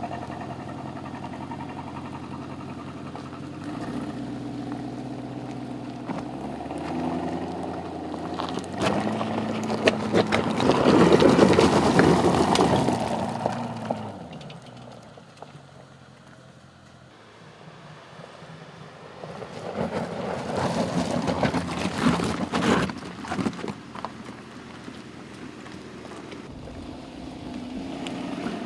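Aston Martin DBX's 4-litre twin-turbocharged V8 driving off-road. The engine note climbs in pitch, is loudest about eleven seconds in, then falls away to a quiet stretch. It swells again later with a run of sharp clicks and knocks.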